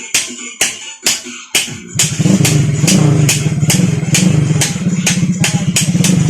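Electronic music beat; about two seconds in, a modified Honda XRM 125 underbone motorcycle's single-cylinder engine (four-valve big-valve 72 mm head, 32 mm carburettor) comes in running steadily with small regular swells in pitch, under the beat.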